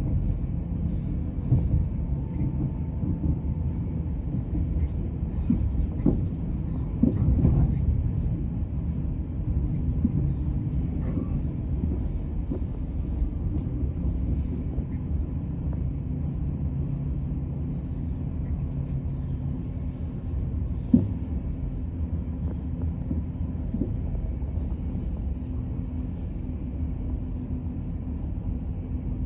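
Passenger train running, heard from inside the carriage: a steady low rumble with a few sharp knocks, the loudest a single click about 21 seconds in.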